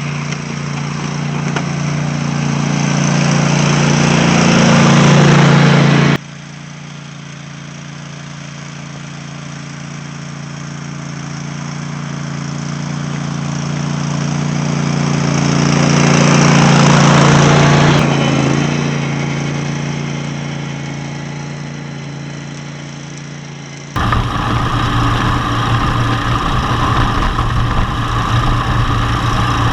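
Cub Cadet lawn tractor engine running under load as it pushes through deep snow. The engine grows louder and fades away again twice. The sound jumps abruptly three times where the recording changes.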